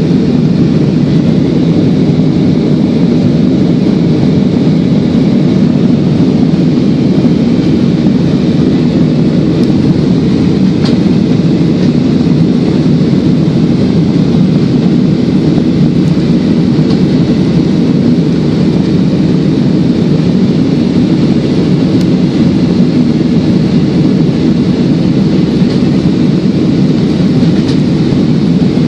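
Steady, loud rumble of an airliner's engines and airflow heard inside the passenger cabin during the climb after takeoff.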